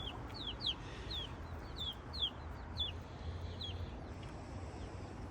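Baby chicks peeping: a string of short, high, downward-sliding peeps, about two a second, thinning out near the end.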